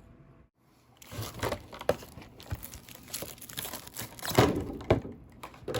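Plastic and paper packaging wrap crinkling and rustling as it is handled and peeled off a figure. The crackles are uneven, start about a second in, and include a few sharper snaps.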